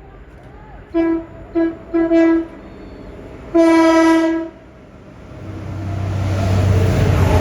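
Train horn sounding four short blasts and then one longer blast, followed by the rumble of a train building steadily as it approaches and comes through.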